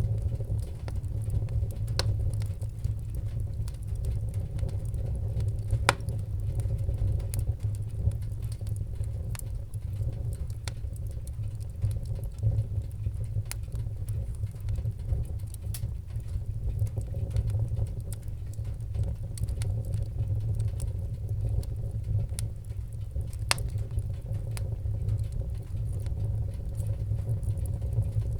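Wood fire crackling in a fireplace: sharp pops and snaps at irregular intervals over a steady low rumble of the flames.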